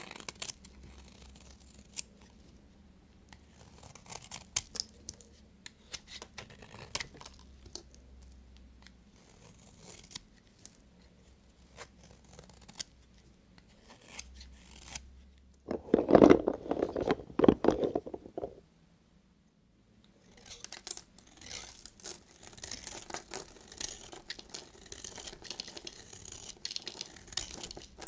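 A knife cutting through bars of soap: scattered crisp scrapes and clicks as the blade goes in. Just past the middle comes a louder, lower crunching spell of about two and a half seconds. After a brief pause, a denser run of crackly scraping cuts follows.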